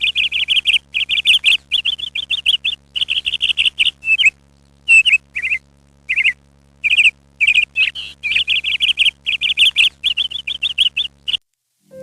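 A small bird chirping in quick, bright runs of rapid repeated notes with short pauses between them. The chirping stops shortly before the end, with a faint steady low hum beneath it.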